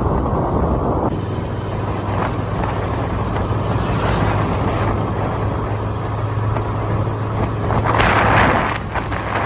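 Motorcycle riding along the road: a steady low engine hum under wind rushing over the microphone, with a louder rush of wind and road noise about eight seconds in.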